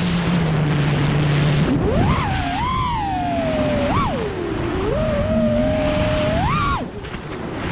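FPV freestyle quadcopter's 2207 brushless motors and propellers whining, the pitch rising and falling sharply as the throttle is punched and eased, over a rushing wind noise. Near the end the whine drops away briefly as the throttle is cut, then picks up again.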